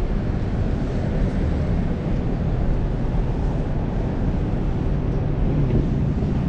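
Steady rushing and rumbling of riding on a bicycle, picked up by a chest-mounted action camera: wind on the microphone mixed with road and traffic noise.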